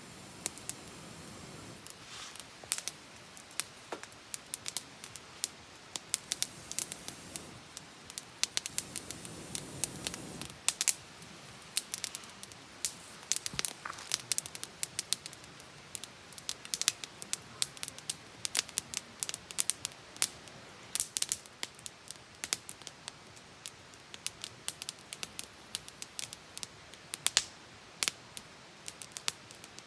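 Wood campfire crackling, with many sharp irregular pops and snaps over a soft steady hiss of burning.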